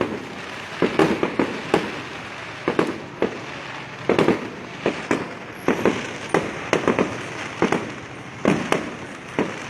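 Aerial fireworks going off in a rapid series of sharp bangs, often two or three close together, about one cluster every second.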